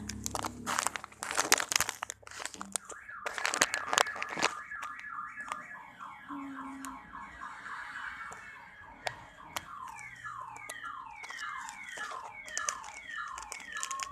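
Plastic crinkling and clicks, then an electronic toy siren sounding a fast, repeated falling wail, about three falls a second, from a few seconds in.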